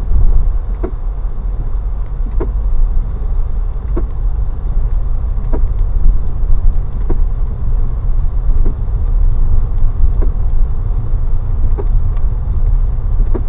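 Car running, a steady low rumble, with a short light tick at an even beat of about one every second and a half.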